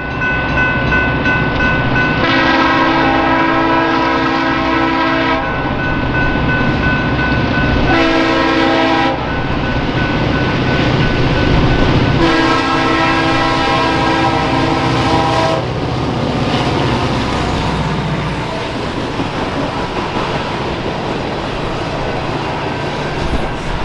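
Diesel locomotive horn sounding a long blast, a short one and another long one, over the low rumble of the train's engines and wheels as it rolls past. After the horn stops, the train rumbles and clatters on.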